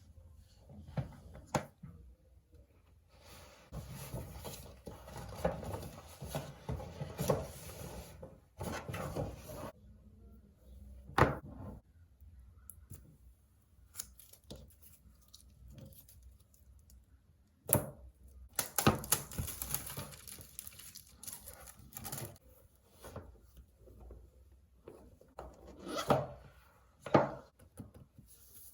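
Packaging being opened by hand: spells of paper and plastic rustling and tearing, with several sharp clicks and knocks as the box and its contents are handled and set down.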